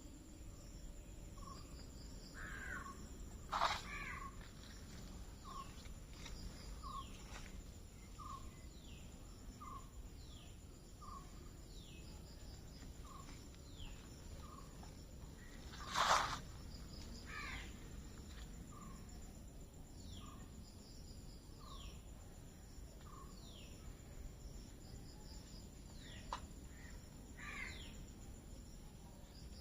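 Several birds calling: one repeats a short note about once a second, and others give falling whistles. Two louder harsh calls come about 4 and 16 seconds in, over a steady high insect buzz.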